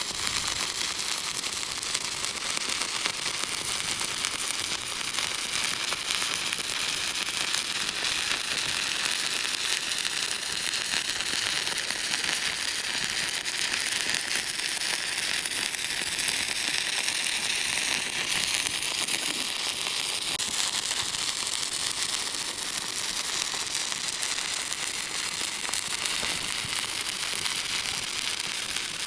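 Electric welding arc crackling and sizzling steadily as a flat-position (1G) weld bead is run.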